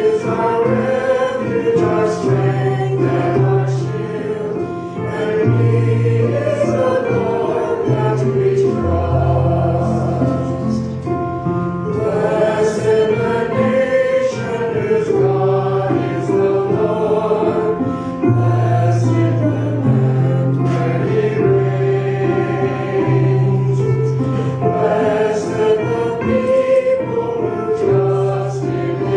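Church worship music: a choir singing a gospel-style song with instrumental accompaniment and held bass notes.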